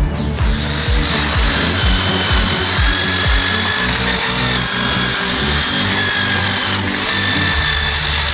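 A power tool running with a steady high whine, over background music with a regular beat.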